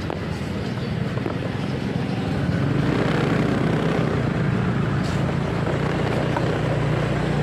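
Motorcycle engine running under way, with road and wind noise, growing a little louder about three seconds in.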